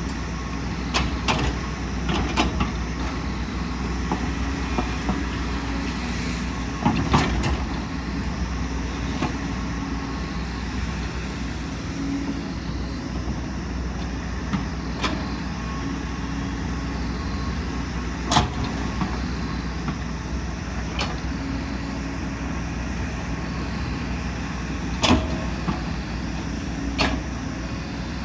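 Heavy excavator's diesel engine running steadily, with sharp metallic knocks and clanks every few seconds from the machine at work.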